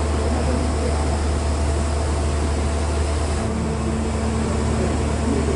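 Steady low rumble and hum inside a passenger train carriage, with a low steady tone coming in a little past halfway.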